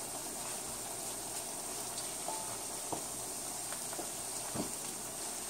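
Hot oil sizzling steadily around bakes (rounds of fried dough) frying in a pot, with a few light knocks as a wooden spatula turns them.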